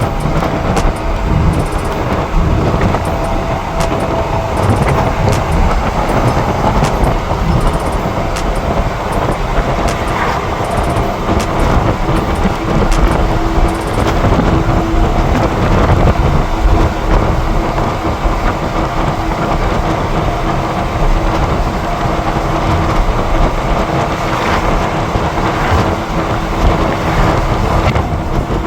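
A motor vehicle running, with a steady engine hum under loud, continuous rushing wind and road noise, and a few sharp clicks in the first half.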